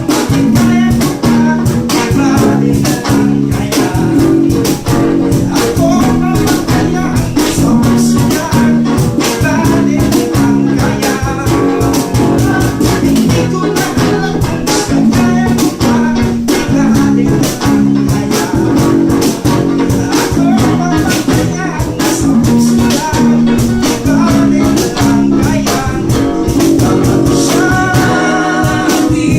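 A band rehearsing: guitar chords over a steady drum beat.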